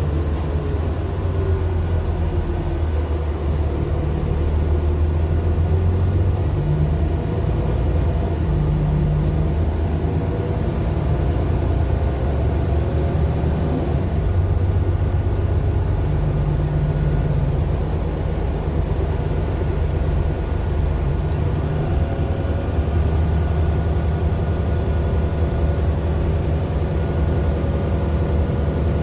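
Mercedes-Benz Citaro LE city bus with its Daimler OM 457 hLA six-cylinder diesel running, a steady low drone that swells and eases in strength, with a faint high whine over it.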